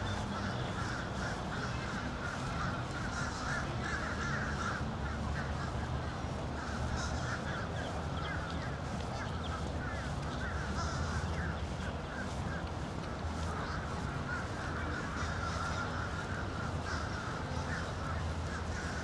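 A flock of birds calling continuously in dense, overlapping chatter, over a steady low hum.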